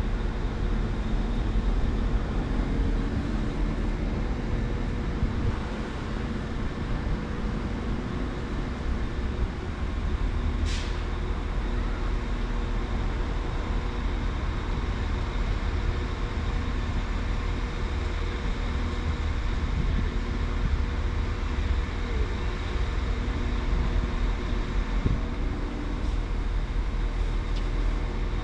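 Train standing at or moving slowly past a station platform, with a steady low rumble and hum from its engine or motors. About eleven seconds in there is a brief high hiss.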